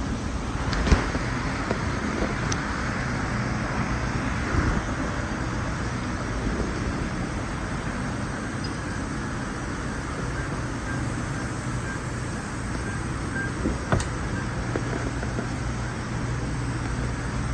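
2003 Mercury Marauder's 4.6L DOHC V8 running steadily at idle, with a couple of faint clicks.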